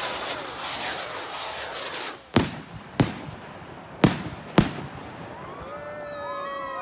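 Fireworks: a dense crackle fading over the first two seconds, then four sharp, loud bangs of aerial bursts spaced about half a second to a second apart. Near the end several overlapping, falling pitched tones come in.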